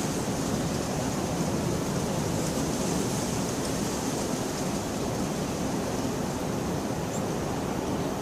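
Steady rain falling, an even, unbroken hiss with no distinct thunderclap.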